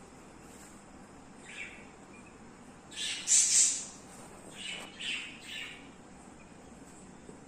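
Baby budgerigar chicks calling: a short chirp, then a loud call about three seconds in, followed by three quicker calls.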